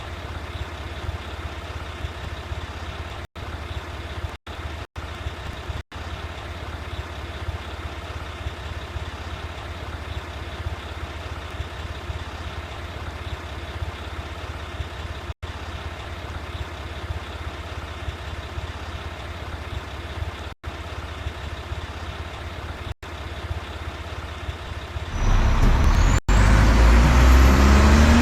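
Mack rear-loader garbage truck's diesel engine idling steadily, cut by a few brief dropouts. About 25 seconds in it becomes much louder as the engine revs, with a rising whine over it.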